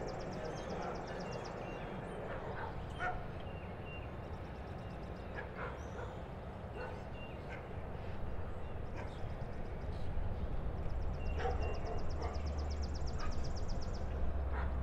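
Low rumble of an approaching diesel train, growing from about halfway through. Over it, a high rapid trill comes twice, with scattered short animal calls.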